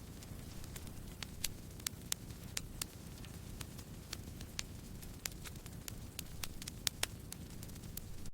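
Campfire of burning wood crackling: irregular sharp pops and snaps, several a second, some louder than others, over a steady low hiss of the flames.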